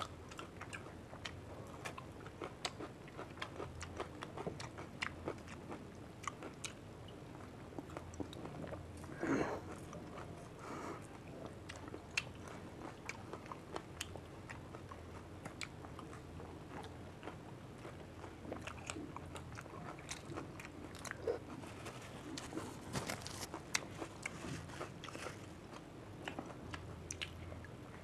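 Two people biting into and chewing fuchka, crisp puri shells filled with tamarind water and topped with green chillies, giving a run of short crunches and crackles. A louder brief sound comes about nine seconds in.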